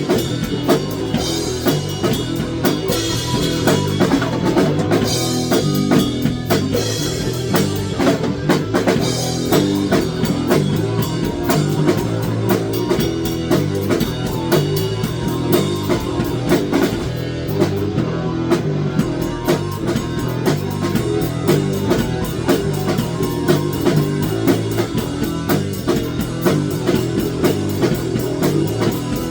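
Rock music: a band playing with drum kit, bass drum and guitar at a steady beat.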